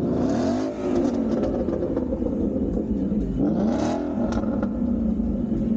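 A vehicle engine running and being revved twice, its pitch rising and falling, first just after the start and again about three and a half seconds in.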